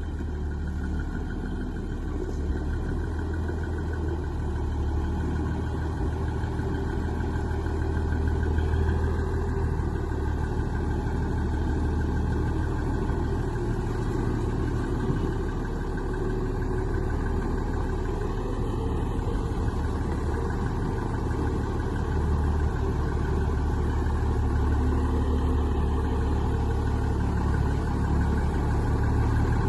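Plow truck's engine running steadily at a low, even pitch, without revving.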